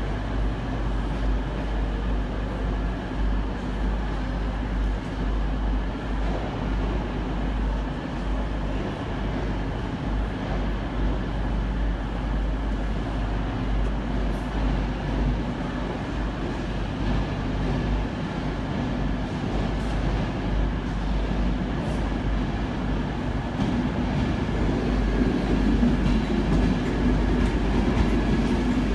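Railway station platform ambience: a steady low rumble with a faint hum, and a passenger train pulling in along the platform, getting louder over the last few seconds.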